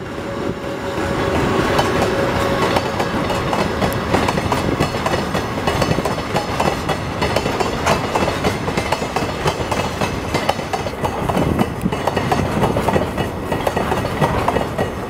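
Electric commuter train rolling on rails, its wheels clacking rapidly and steadily over the rail joints; it rises over the first couple of seconds, with a faint steady whine in the first few seconds.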